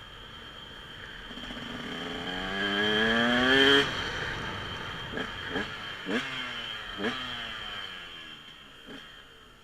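Dirt bike engine revving up, its pitch and loudness climbing to a peak about four seconds in before the throttle is shut off. This is followed by a handful of short, sharp throttle blips that fade away.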